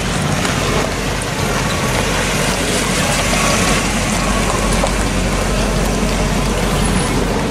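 Hot rod engine idling with a steady low rumble.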